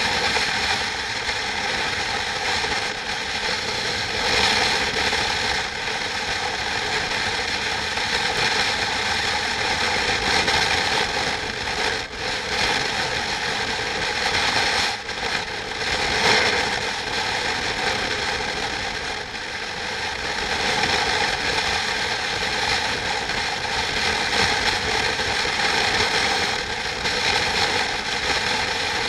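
Steady mechanical rattling and whirring that keeps an even level throughout.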